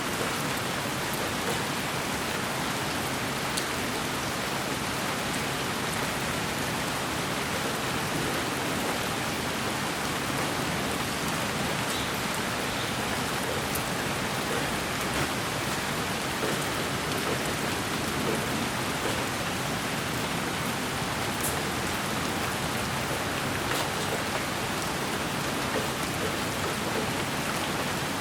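Steady rain-like noise played as sleep white noise: an even hiss with faint scattered drop ticks, unchanging throughout.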